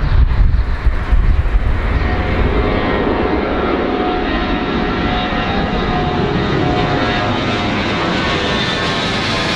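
Large airplane's engines running loud and steady, with a high whine that falls slightly near the end; wind buffets the microphone in the first second or two.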